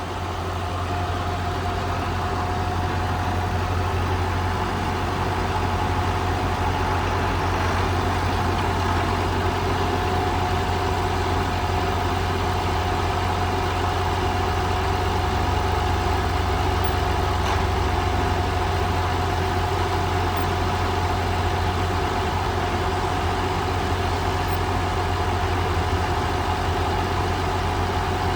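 John Deere 7200 tractor's six-cylinder turbo diesel engine running steadily at idle, the level rising slightly over the first second.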